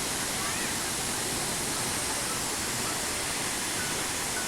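Steady, unbroken rush of a large waterfall, Hundru Falls, pouring down its rock face.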